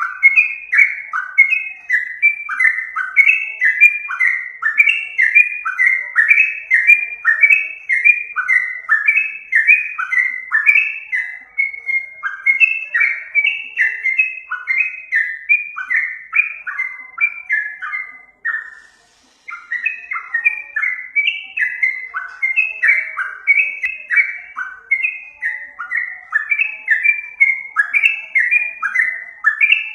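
Yellow-vented bulbul (trucukan) singing: a rapid, unbroken string of bubbly, falling whistled notes, several a second, with one brief pause a little past the middle.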